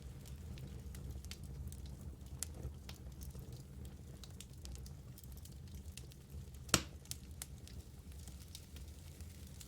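Wood fire in a fireplace burning with a low steady rumble and scattered sharp crackles, one louder pop about two thirds of the way in.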